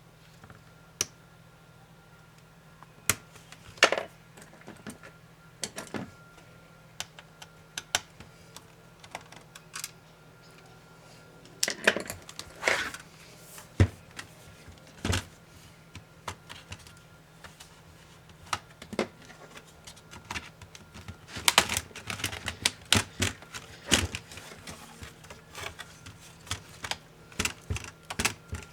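Irregular small clicks and taps of hand tools against the plastic and metal parts of an HP ProBook 450 G5 laptop as it is taken apart. There is a dense flurry of clicks about three quarters of the way through.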